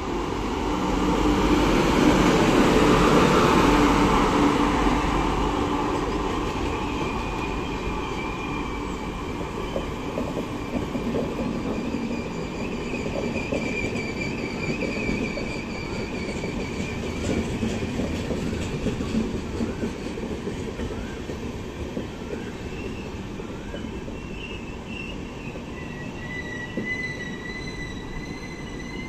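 Electric-hauled double-decker express train passing close by. A loud rush swells as the locomotive goes past in the first few seconds, then the coaches' wheels keep up a steady rumble on the rails, with thin high wheel squeals coming and going over it.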